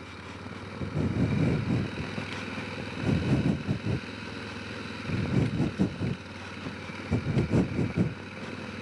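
Honda Rincon 650 quad's single-cylinder engine running while riding over a rough cross-country track. Louder low rumbles swell and fade about every two seconds over a steady hum.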